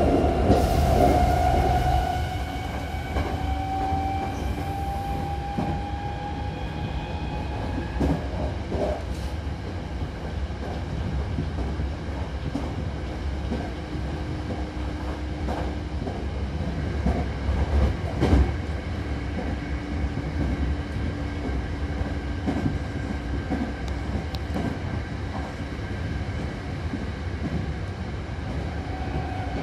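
Hankyu Takarazuka Line electric train running between stations, heard from inside the car by the door. There is a steady low rumble of the running gear, a motor whine that rises slowly in pitch over the first several seconds, and scattered sharp clacks from the wheels, the loudest about two-thirds of the way through.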